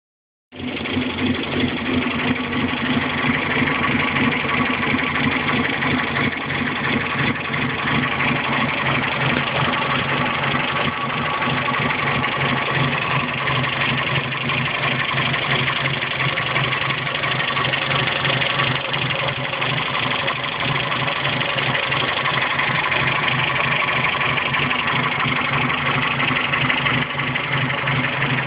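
1962 Datsun L320 pickup's four-cylinder engine idling steadily, starting about half a second in.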